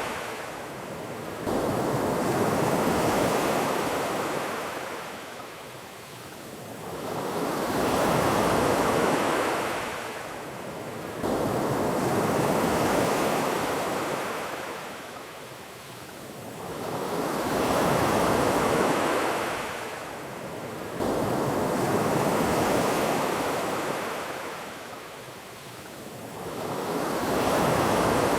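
Ocean surf washing onto a beach, each wave swelling and then falling away, about one every five seconds.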